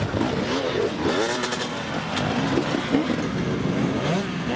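Dirt bike engines revving, their pitch rising and falling repeatedly over one another.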